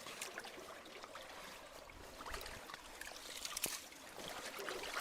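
Water running through a partly clogged culvert, with scattered small knocks and scrapes and one sharper click a little past halfway.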